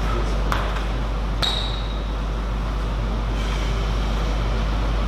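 Two sharp clicks of a table tennis ball about a second apart, the second with a short ringing ping, over a steady low hum.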